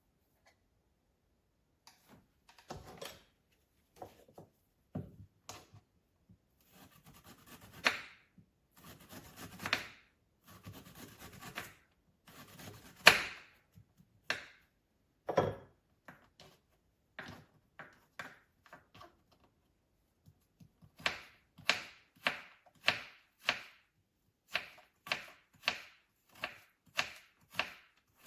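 A series of sharp knocks and clicks, scattered and uneven at first, then settling a little past the middle into a steady run of taps a bit under two a second.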